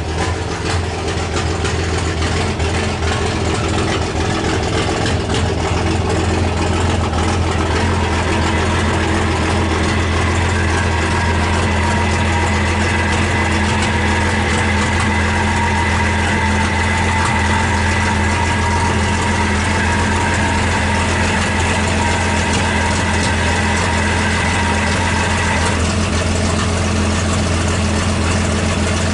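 12-valve Cummins diesel in a pulling truck idling steadily with its exhaust unhooked underneath, so it runs without its exhaust system. A steady higher whine runs alongside it for most of the middle and stops a few seconds before the end.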